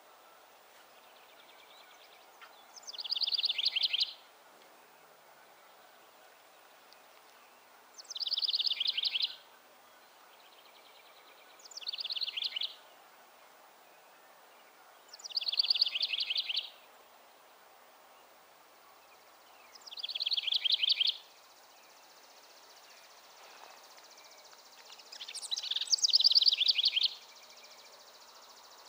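A songbird singing the same short, fast trill over and over: six phrases about a second long each, roughly four seconds apart, the last one a little longer and louder.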